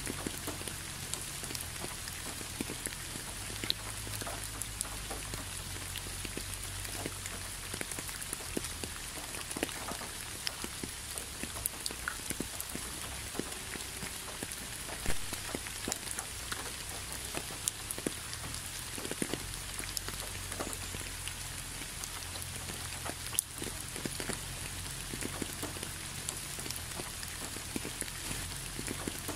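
Gentle rain falling steadily on concrete, with many close individual drops ticking through an even hiss and one louder drop about halfway through.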